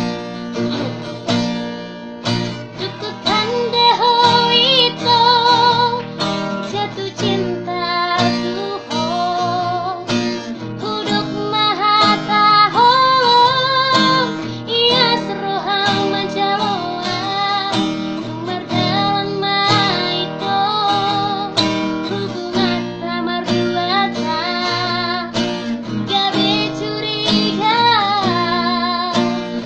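A young woman singing a slow melody with a wide, wavering vibrato over a plucked and strummed acoustic guitar; the voice comes in about three seconds in.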